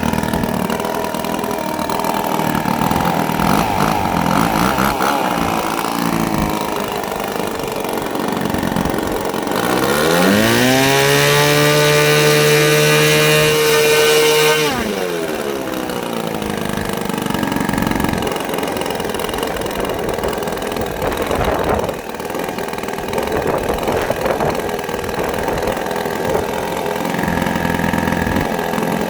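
Saito FA-90TS twin-cylinder four-stroke glow model engine on a test run, freshly tuned on its low-speed needle. It runs at low speed, is opened up about ten seconds in with the pitch rising to a steady high-rpm run for about four seconds, then throttles back down to low speed.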